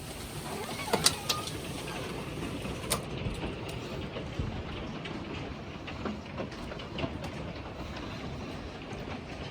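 Hail and heavy rain falling: a steady rush of rain with scattered sharp clicks of hailstones striking hard surfaces, a few louder hits about a second in and again around three seconds.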